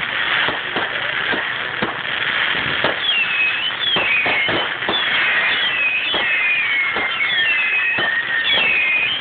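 Fireworks display: a rapid, irregular series of bangs and crackles. From about three seconds in, high whistling glides repeatedly fall and rise in pitch.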